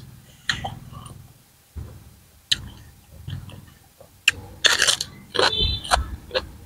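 Close-up mouth sounds of eating: wet chewing clicks, then a loud crisp crunch a little past the middle as a raw round Thai eggplant is bitten into, followed by more crunchy chewing.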